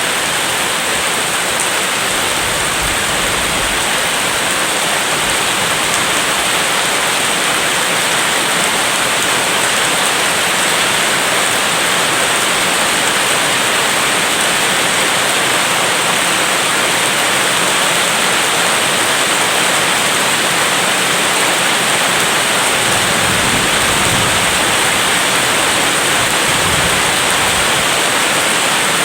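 Steady heavy rain, a dense, even hiss, with a soft low rumble a few seconds before the end.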